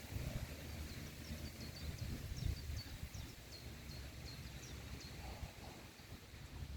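A small bird's rapid run of short, high, down-slurred notes, about five a second for two seconds, starting about a second in, over a steady low rumble of wind on the microphone.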